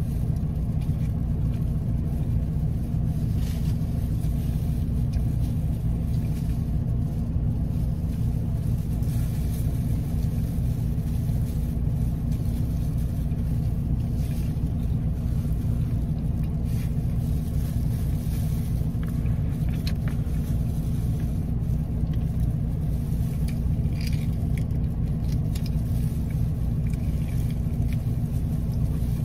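Steady low rumble of a car engine idling, heard from inside the cabin, with faint chewing crunches and crinkles of plastic gloves now and then.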